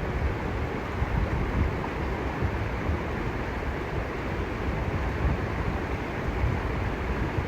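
Steady rush of a waterfall and fast-flowing stream water, with an uneven low rumble underneath.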